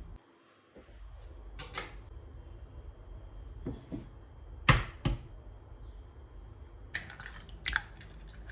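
Scattered light knocks and clicks of kitchenware being handled and set down on a counter, the sharpest knock about halfway through and a quick run of clicks near the end.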